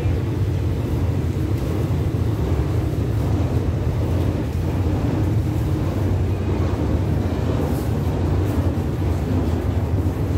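Passenger train pulling out and rolling away: a steady low rumble of the moving carriages and locomotive.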